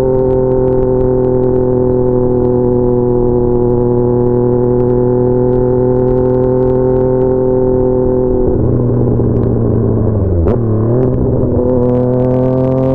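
Yamaha MT-09's inline-three engine through an SC Projects CR-T exhaust under way, holding a steady note that sags slightly in pitch. About ten seconds in the pitch dips briefly with a sharp click, then the note rises again as the bike accelerates.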